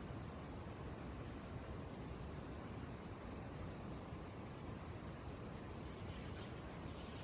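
Crickets chirring in a steady high-pitched trill, with two short, louder high chirps about three and six seconds in.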